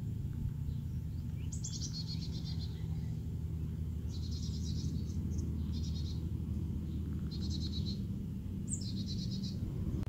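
A songbird singing short, high, rapidly pulsed trills, five phrases about a second long with short gaps between them, over a steady low rumble.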